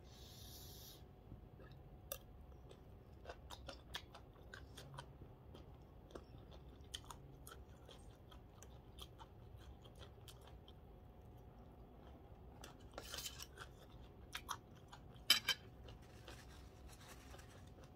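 Close-miked chewing of spicy papaya salad, wet and crunchy, with many scattered small clicks and mouth sounds. A cluster of louder crunches and clicks comes about three-quarters of the way through.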